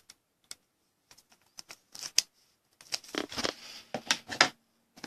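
Scattered clicks and short rustles of trading cards and their plastic packaging being handled and moved about on a desk. The clicks come closer together from about three seconds in.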